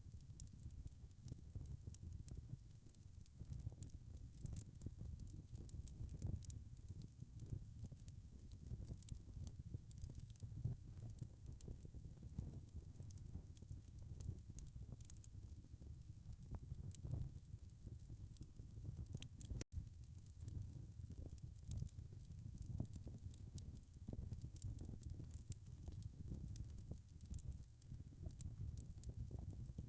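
Wood fire crackling: frequent small irregular pops and snaps over a low steady rumble of burning. The sound drops out for an instant about twenty seconds in.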